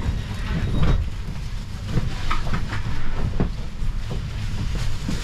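Electric commuter train heard from inside a carriage as it starts to pull slowly out of a station: a low running rumble with scattered clicks and knocks from the wheels and carriage.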